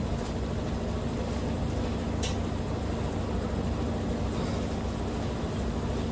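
Washing machine running with a steady low mechanical hum, with one brief high click about two seconds in.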